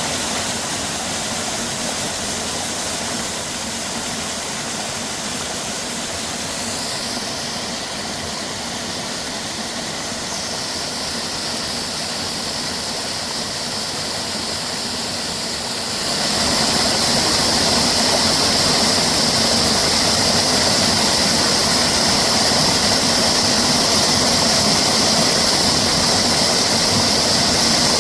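Steady rush of a valley stream flowing over rocks, with a high steady drone joining about a quarter of the way in; both get louder a little past the middle.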